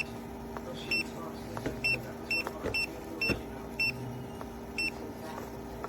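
Short, high electronic beeps, about one a second and sometimes closer together, over a steady low hum.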